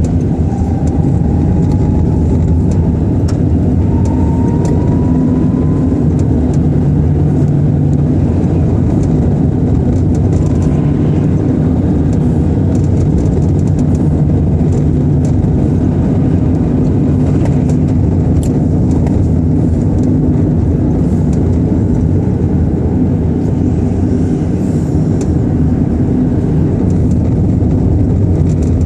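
A car being driven: a steady engine and road rumble heard from inside the cabin. A faint rising whine comes in over the first few seconds.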